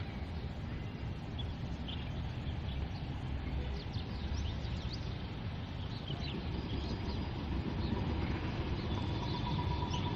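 Small birds chirping here and there over a steady low rumble, with a thin steady tone joining near the end.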